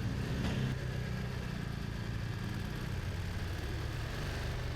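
BMW twin-cylinder adventure motorcycle engine running steadily at low revs, close to idle.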